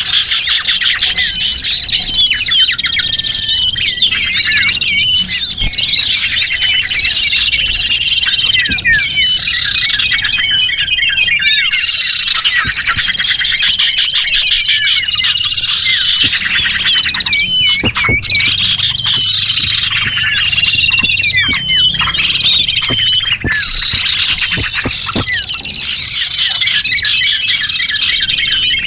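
Dense chorus of many small birds chirping and twittering at once, a loud, continuous tangle of quick, high, overlapping calls. It is a lure recording made to draw small birds in.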